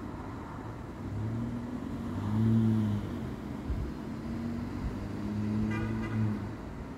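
Car engine droning from the street, swelling and easing in several spells with small rises and falls in pitch, loudest about two and a half seconds in. A brief higher rasp comes near the end.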